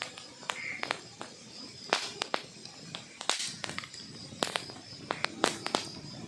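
Wood fire burning in a fireplace, its logs crackling with irregular sharp pops and snaps and a short hiss about three seconds in.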